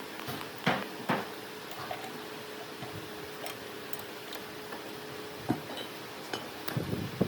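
Workshop handling noise: several short sharp knocks and clicks, the loudest two about a second in and more near the end, over a steady low hum.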